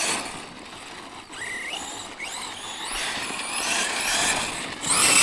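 Tekno MT410 2.0 electric 1/10-scale RC monster truck driving, its motor whining and rising in pitch with bursts of throttle, louder near the end.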